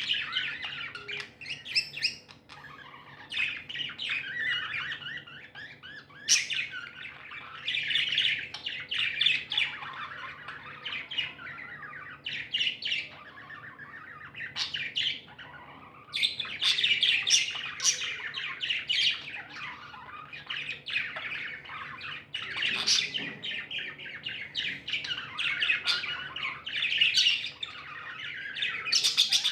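Pet budgerigars chattering and chirping without pause, with louder bursts of squawks here and there.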